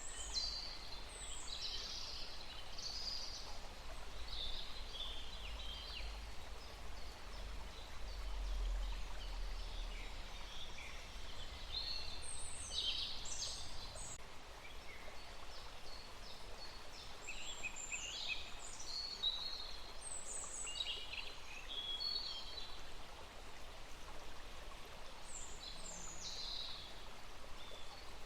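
Small songbirds chirping and trilling, with short calls scattered throughout over a steady outdoor hiss. A low rumble sits underneath during about the first half.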